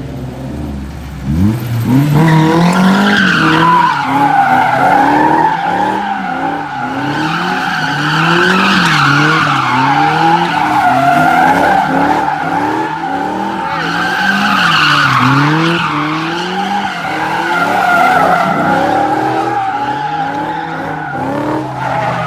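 A car doing doughnuts. The engine revs up about a second and a half in, then rises and falls with the throttle every couple of seconds, while the spinning rear tyres squeal without a break.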